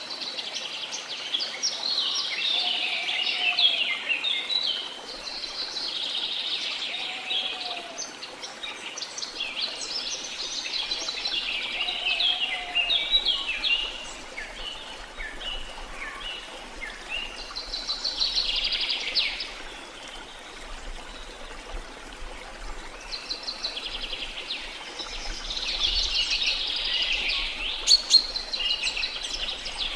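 Several songbirds singing in overlapping bouts of rapid high chirping notes, with a lower short whistled note repeated a few times in the first half. Underneath runs a steady hiss of flowing water.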